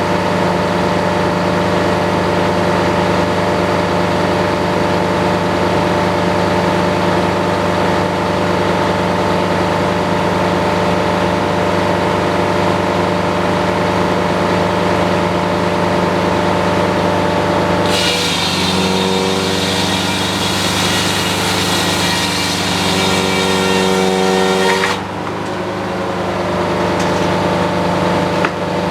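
Sawmill engine running steadily. Roughly two-thirds of the way in, the blade cuts through the cherry log for about seven seconds, adding a loud, higher-pitched sawing noise while the engine's pitch shifts under load. The cut then ends and the engine runs on as before.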